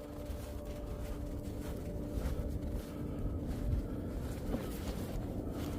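Low wind rumble buffeting the microphone in a snowstorm, with faint held musical tones that fade out about halfway.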